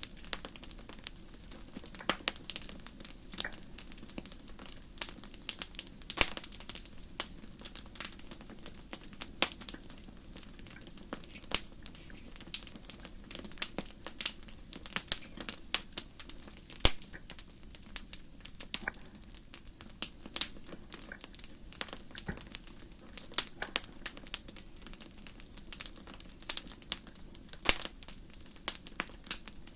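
Wood fire crackling: irregular sharp snaps and pops, several a second, over a faint steady background rush.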